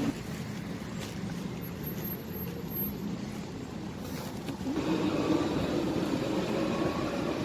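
Car on the move: a steady engine and road rumble that grows louder about five seconds in.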